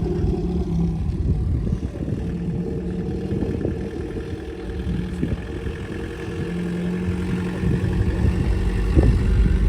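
A car engine idling steadily, with a low rumble under it.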